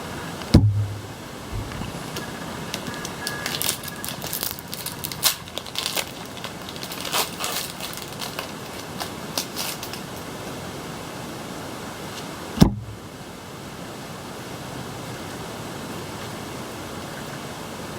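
Handling noise while a trading-card booster pack is opened: a cluster of sharp crackles and rustles from the foil wrapper. There is a thump about half a second in and another about twelve seconds in, over a steady hiss.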